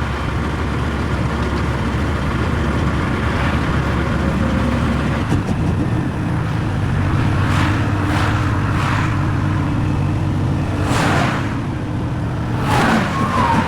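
Semi-truck diesel engine running steadily; its note changes about five seconds in. Several short noisy bursts come over it in the second half.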